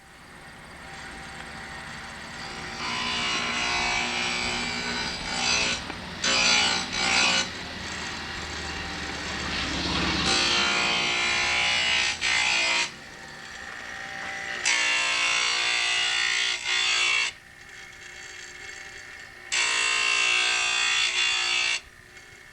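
Power saw cutting ceramic tile. The motor whines steadily, and four times it turns harsher and louder for a couple of seconds as the blade cuts into the tile.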